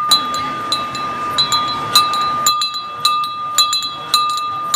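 A bell struck over and over at an uneven pace, about two strikes a second, its clear ringing tone carrying on between strikes. This is the ride train's bell.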